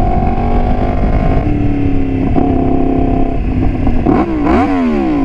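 Yamaha FZ-10 motorcycle's inline-four engine idling with a steady tone. About four seconds in, the pitch briefly wavers up and down.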